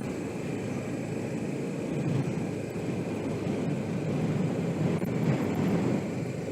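Suzuki GS500E's parallel-twin engine running steadily under way, heard from the helmet camera with wind rushing over the microphone.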